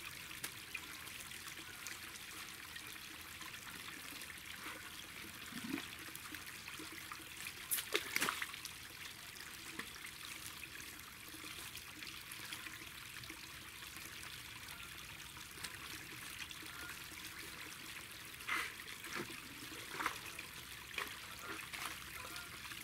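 Water trickling steadily through a small dam, with a few brief sharp sounds, the loudest about eight seconds in.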